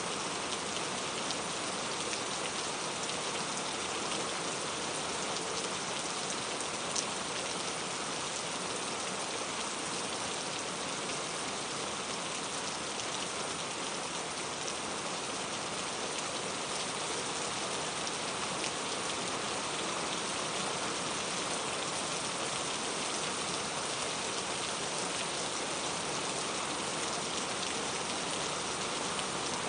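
Steady rain falling, an even hiss with many small drops pattering on a surface and one sharper drop tick about seven seconds in.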